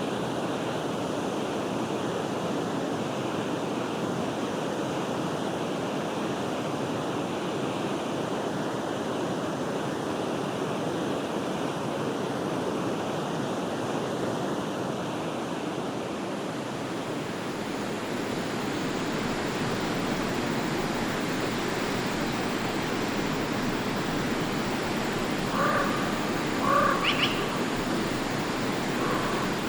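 Stream water running steadily in a constant rush. Near the end, a bird gives a few short calls.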